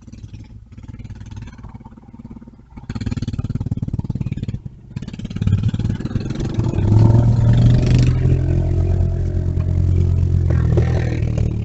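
A motor vehicle's engine, faint at first, growing louder about halfway through and then running loud and steady with a low hum.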